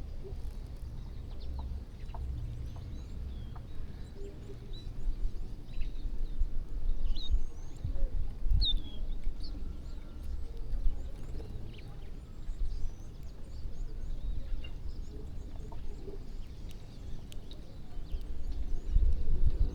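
A flock of birds feeding, giving many short, scattered chirps and calls, over an uneven low rumble that swells around the middle and near the end.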